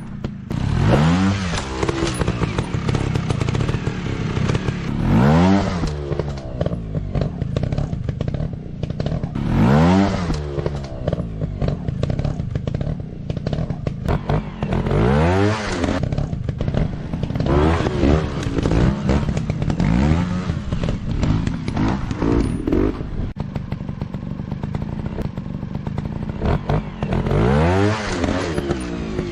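Dirt bike engines revving up and dropping back, again and again about every four to five seconds, over a constant clatter.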